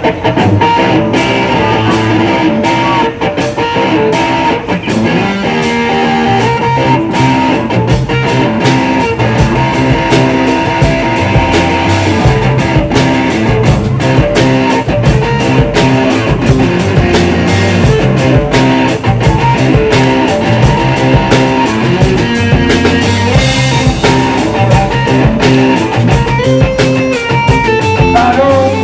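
A rock band playing live: guitar over bass and drums with a steady beat.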